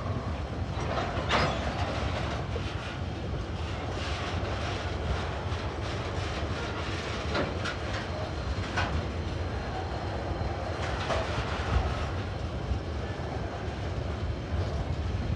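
Freight wagons loaded with shipping containers rolling across a rail overpass: a steady rumble of wheels on the bridge, with a few sharp clicks and clacks.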